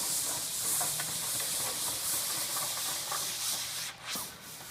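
Printed banner being pulled out of a roll-up (pull-up) banner stand: a steady rubbing hiss of the banner sliding out through the stand's slot, dying away near the end with a light knock.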